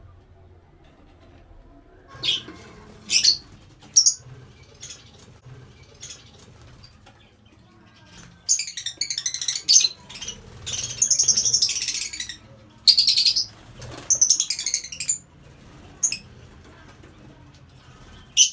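Lovebirds calling: a few short, sharp high chirps, then longer runs of rapid, shrill chatter through the middle, and one more sharp chirp at the end.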